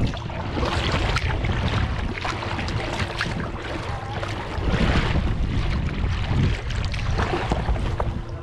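Kayak paddle strokes dipping and splashing in river water, with wind rumbling on the microphone.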